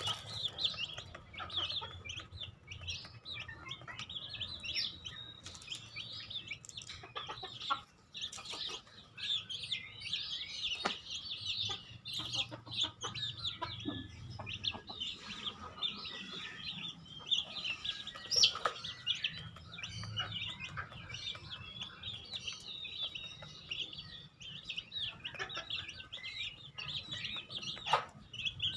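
Chickens clucking, with a constant busy chatter of short high chirps and peeps and occasional sharper calls.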